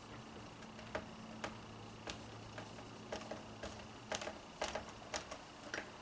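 Plastic vacuum cleaner parts clicking and knocking as they are handled and fitted back together: about a dozen short, irregular clicks, coming closer together in the second half.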